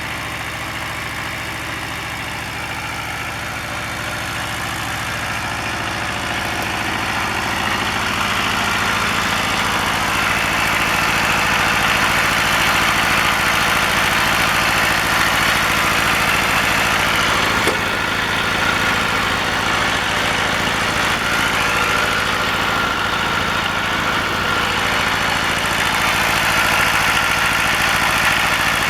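Kubota Z750 two-cylinder diesel engine in a Kubota L175 tractor running steadily, growing louder over the first ten seconds or so and then holding even.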